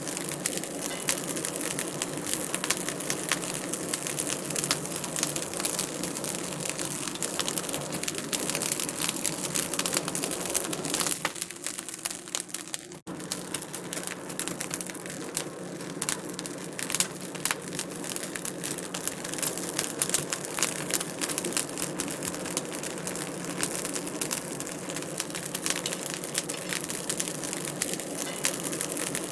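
Wood fire crackling and popping in a fireplace, a dense stream of small snaps over a steady hiss. Around 11 to 13 seconds in the crackle thins and cuts out for an instant, then carries on as before.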